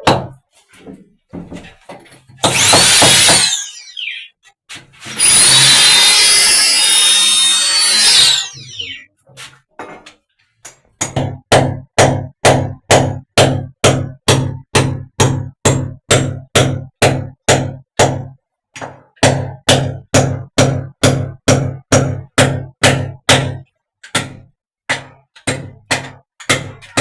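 Power drill running in two bursts, one short and one a few seconds long, its whine rising and falling, likely drilling masonry to mount an Arabic shower. Then a hammer strikes steadily at about two to three blows a second, each blow with the same ringing note, with a brief break near the middle.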